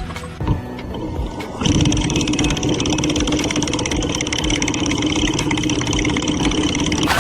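A motor starts running at a steady high speed about two seconds in, a loud even hum with a fine rapid pulse.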